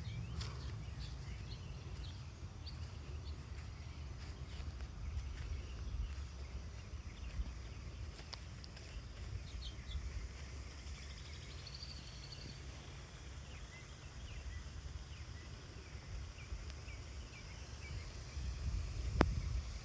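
Outdoor garden ambience: birds giving scattered short chirps and a brief trill over a steady low rumble, with one sharp click near the end.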